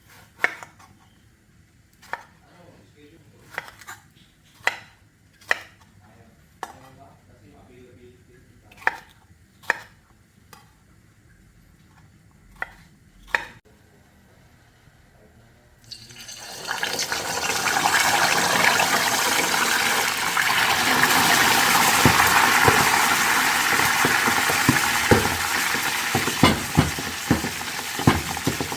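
A dozen or so sharp clinks and taps of utensils on cookware, then about sixteen seconds in food goes into hot oil and a loud sizzle of frying starts and keeps on, with pops and crackles through it.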